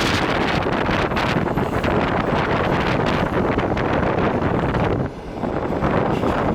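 Wind rushing over the microphone at the window of a moving train, with the train's running noise beneath. It drops briefly about five seconds in.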